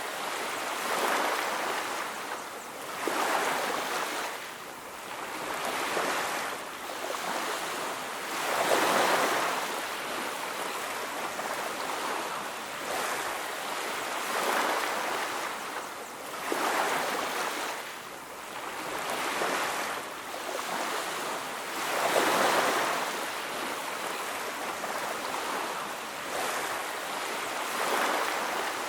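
Ocean surf washing onto a beach, a steady wash of noise that swells and fades again every few seconds as waves break and run back.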